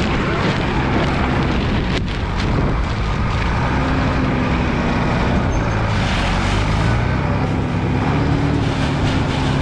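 Strong wind buffeting the microphone: a loud, steady rumble with uneven gusts.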